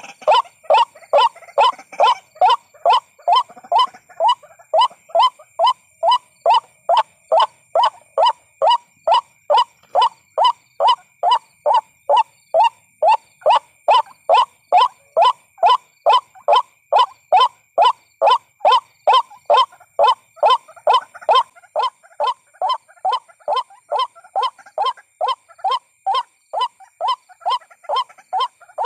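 White-breasted waterhen calling: one short, croaking note repeated over and over in a steady, even rhythm, about two and a half calls a second. This is the lure call that trappers play to draw waterhens in.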